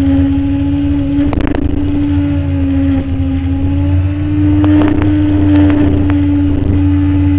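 Stock 2008 Kawasaki ZX-10R's inline-four engine running under way at a nearly steady pitch that rises slightly midway and eases near the end, over a low wind rumble on the onboard microphone. A few short knocks come about a second in and again between five and six seconds in.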